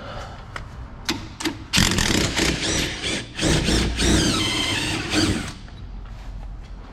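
A power tool runs in several bursts, its motor whine shifting in pitch, after a couple of sharp metal clicks.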